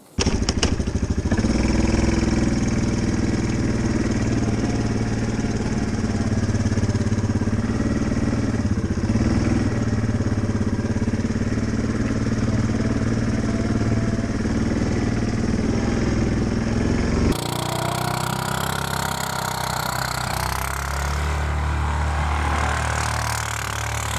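A vehicle engine running steadily the whole time, its note changing abruptly about seventeen seconds in.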